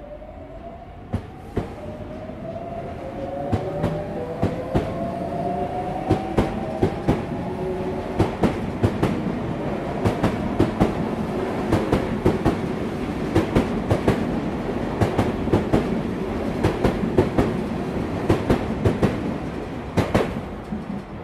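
Sotetsu 8000 series electric train pulling out and accelerating: traction motor tones rise in pitch over the first several seconds, then the wheels clatter over rail joints, clicks coming in quick pairs as the cars pass. The clatter stops abruptly about twenty seconds in as the last car clears.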